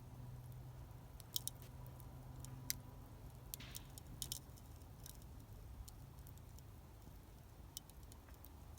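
Campfire wood crackling faintly, with sparse sharp pops; the loudest snaps come about a second and a half and nearly three seconds in. A low steady hum runs underneath.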